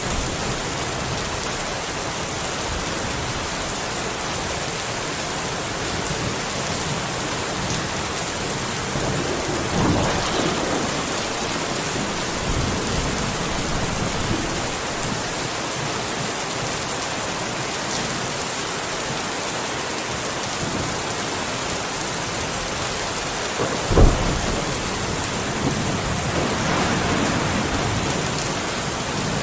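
Steady rain falling, with thunder: a rumble about ten seconds in, a sharp thunderclap later that is the loudest moment, and a further roll of thunder near the end.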